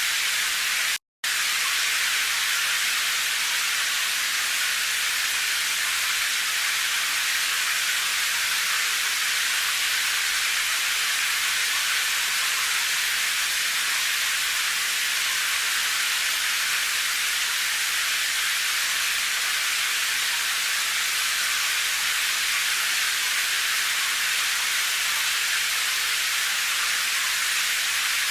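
Steady heavy rain making an even, high hiss with no separate drops standing out. About a second in, the sound cuts out completely for a fraction of a second.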